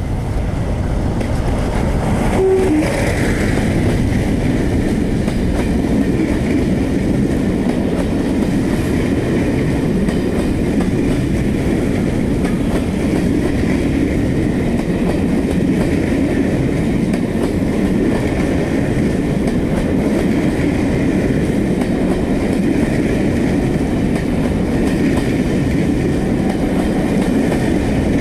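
A Class 47 diesel-hauled passenger train passing close by, its coaches rolling past steadily and loudly on the rails.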